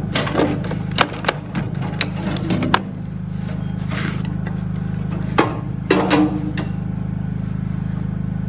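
Hand tools knocking and clinking on metal while bolts are worked off the old engine: a run of sharp strikes in the first three seconds, then two more around five and six seconds, some ringing briefly. A steady low hum runs underneath.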